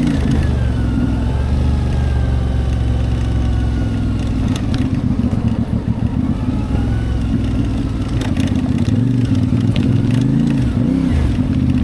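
CFMoto 450MT's 449 cc parallel-twin engine running under way, its pitch dipping and rising a couple of times near the end as the revs change. A few sharp clicks are heard about halfway through.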